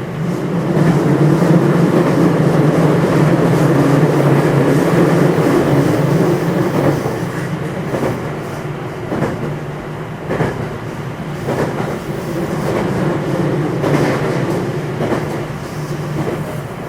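Running sound inside a JR West 227 series electric motor car (Hitachi IGBT VVVF) travelling at speed: a steady low rumble of wheels and running gear. Every second or so there are sharp clacks as the wheels pass over rail joints. The sound is loudest in the first few seconds and eases slightly later.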